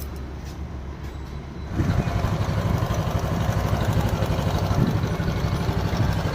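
Aprilia SR 150 scooter's single-cylinder engine idling after a full engine overhaul. It gets louder about two seconds in and then runs steadily.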